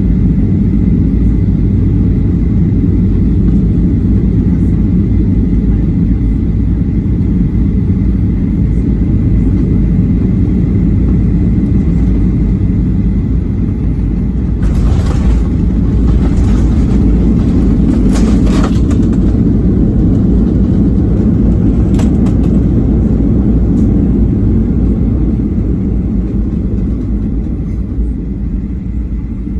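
Inside the cabin of a Boeing 737-800, a steady low rumble from engines and airframe. A cluster of rattles and clicks comes about halfway through, with one more click a little later, and the rumble eases off near the end.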